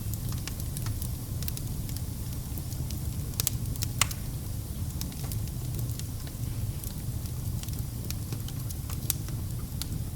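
Fire burning in a fireplace: a steady low rumble of flame with irregular sharp crackles and pops. The two loudest pops come a little past the middle.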